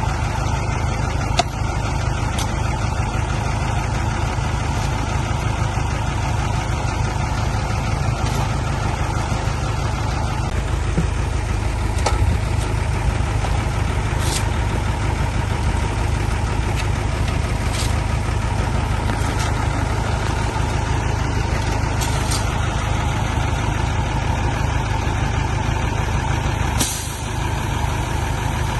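Heavy diesel engine running steadily, with a few short high hisses over it, the longest near the end.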